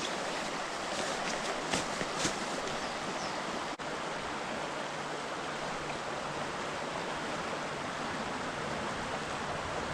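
Creek water rushing steadily over rocks, with a couple of short clicks about two seconds in.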